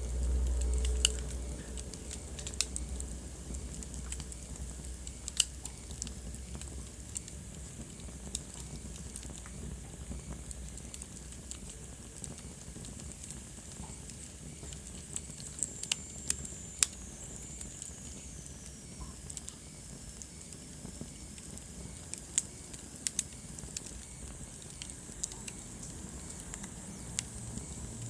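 Wood fire crackling in a fireplace: sharp pops at irregular moments over a steady low rumble and hiss of the flames. The rumble is stronger in the first two seconds, and about halfway through a thin high whistle falls slowly in pitch.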